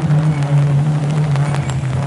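Rally car engine held at steady high revs on a rain-soaked tarmac stage, with a hiss of spray and rain beneath it and a few sharp clicks.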